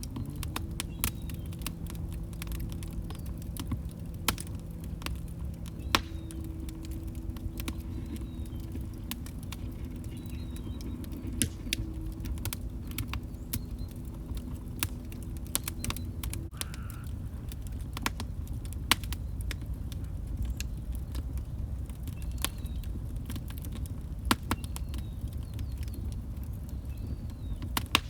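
Wood fire crackling: irregular sharp pops and snaps from burning logs over a low, steady rumble of flame.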